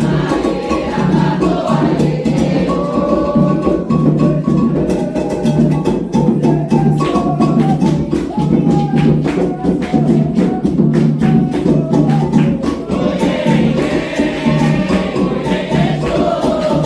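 Candomblé ritual music: atabaque hand drums and a small struck bell or rattle play a fast, steady rhythm while a group sings the chant.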